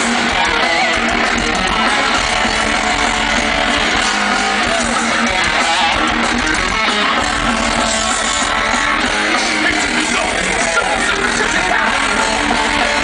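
Loud, dense guitar-driven rock music, electric guitar prominent, running without a break.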